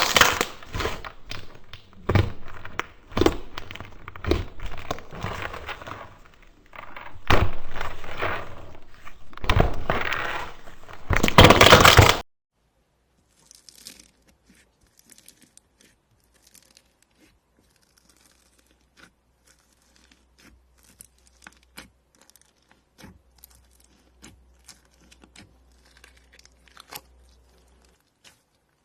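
Hands squishing and stretching slime, with dense crackling and popping for about twelve seconds. It cuts off suddenly and is followed by much fainter scattered clicks and pops of slime being handled.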